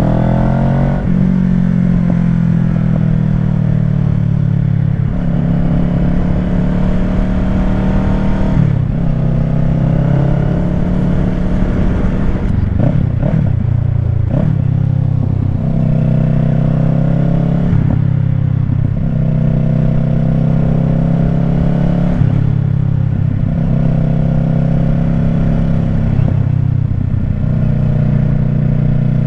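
Kawasaki Ninja 650 parallel-twin engine through a Shark SRC-4 aftermarket full exhaust, riding along at low to moderate revs. Its pitch holds for a few seconds at a time, then steps or slides to a new level as throttle and gears change.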